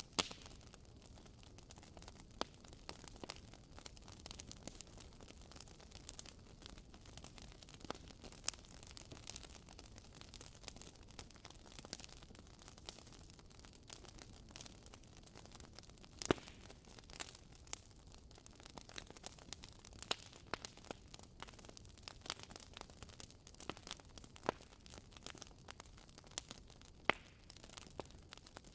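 Wood fire burning in a fireplace: logs crackling with irregular sharp pops, a few louder snaps among them, over a soft hiss.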